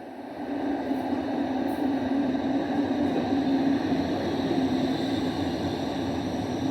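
Toronto transit rail train running: a steady rumble of wheels and motors with a faint high whine, which swells about half a second in and then holds steady.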